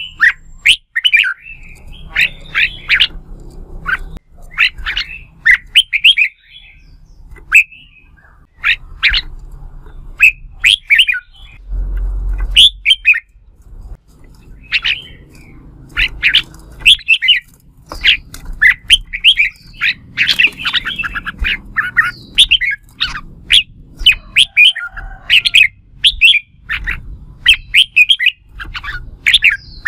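Red-whiskered bulbul singing: short, quick chirping phrases, one after another with brief gaps. A low rumble sits underneath and swells about twelve seconds in.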